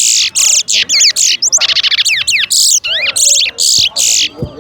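Towa-towa (chestnut-bellied seed finch) singing a fast, loud run of high warbled and sweeping notes, which breaks off about four seconds in.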